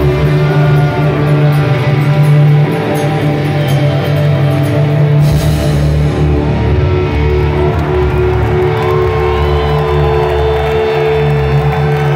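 Live rock band playing an instrumental passage with sustained, droning electric guitars and bass, with a crash about five seconds in.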